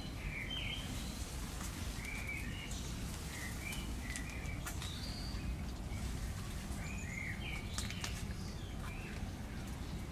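Garden songbirds chirping in short, scattered warbling phrases over a steady low background rumble, with a few faint ticks.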